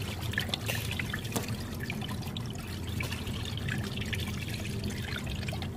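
Beef bone broth trickling as it is poured into a plastic PET bottle, a steady thin stream with small clicks and drips.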